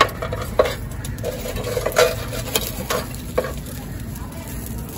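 Metal spoon stirring and scraping in a large biryani cooking pot, knocking against the metal a few times.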